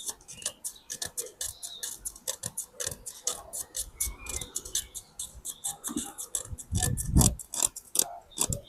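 Ratchet spanner clicking in rapid runs as bolts on the stripped engine's bottom end are worked, with a few heavier metal knocks about seven seconds in.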